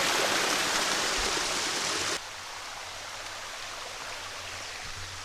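Rushing creek water, a steady loud hiss that cuts off abruptly about two seconds in, leaving a much quieter hiss with a faint low hum.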